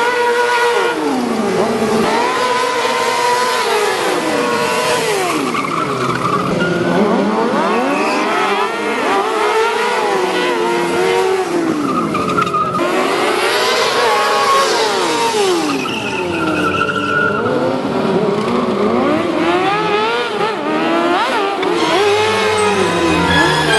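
Motorcycle engine revving up and down again and again, with tyres squealing as the bike drifts.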